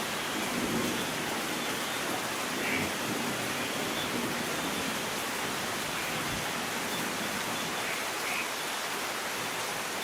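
Steady rain falling, an even continuous hiss of drops with no distinct thunderclap.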